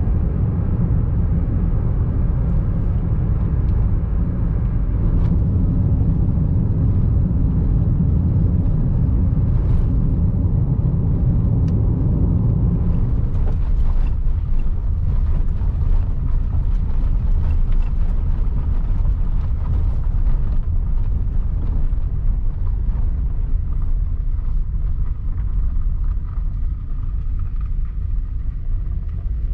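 Steady low rumble of a vehicle on the move, easing a little about halfway through.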